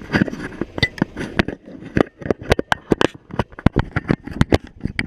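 Hand-held siphon-feed sandblast gun loaded with glass bead media being clipped on and shaken: sharp, irregular clicks and knocks, several a second.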